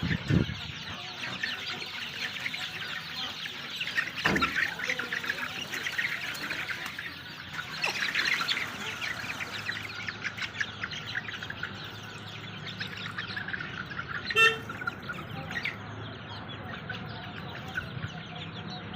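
Many birds chirping together, a dense run of short, overlapping chirps, with one louder, sharp call about fourteen seconds in.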